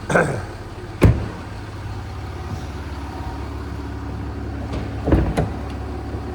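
Jaguar XF V6 engine idling steadily, with a short noise at the start, a sharp thump about a second in, and two more thumps about five seconds in.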